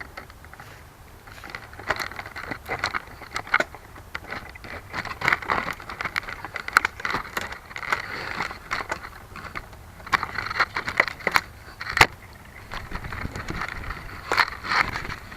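Irregular crackling and scraping with many sharp clicks, picked up by the small keychain camera's microphone, with no steady motor sound. One click about twelve seconds in is the loudest.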